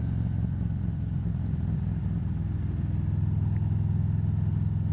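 Harley-Davidson Road Glide's V-twin engine running steadily on the road, a constant low drone with wind noise, picked up by the rider's wireless mic.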